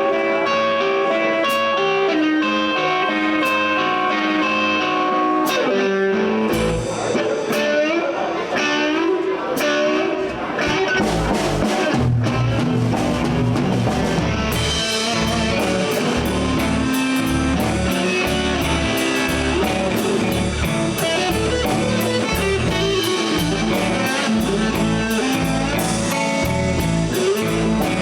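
Live slow blues: an electric guitar plays single-note lead lines alone, then bass and drums come in about six seconds in and the band plays on, with cymbals ticking steadily from about halfway.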